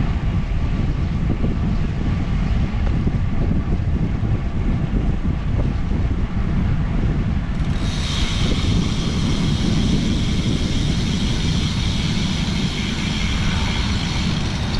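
Wind rushing over the microphone of a camera on a moving bicycle, a loud steady low buffeting. About halfway through, a steady high-pitched hiss joins it and runs on.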